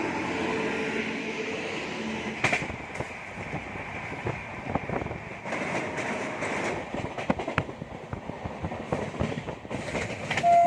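Train running along the track: a steady rumble with irregular clattering knocks from the wheels over the rails. A horn starts sounding right at the end.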